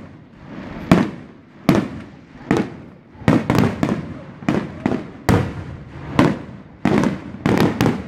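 Aerial firework shells bursting in a string of sharp booms, about one a second at first and then several in quick succession, each trailing off briefly.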